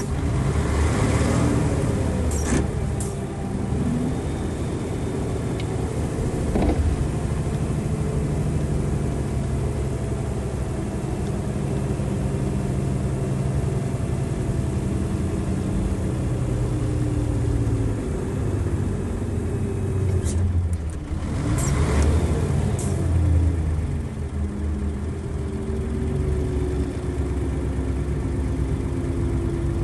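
Nissan Diesel FE92TA turbocharged diesel bus engine heard from on board while driving, its pitch rising and falling with engine speed. A few short sharp clicks come in near the start and again about two-thirds of the way through.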